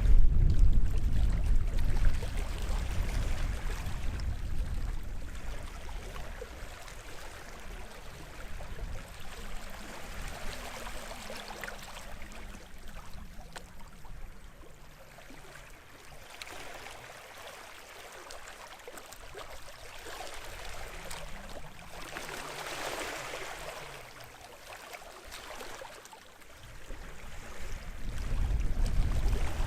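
Small waves washing and lapping on the shore of a sheltered bay, swelling and receding a couple of times. Low wind rumble on the microphone at the start and again near the end.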